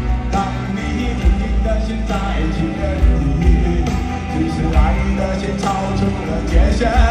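Live rock band playing through a large concert sound system, heard from the audience: heavy bass and drums with guitars and singing over them.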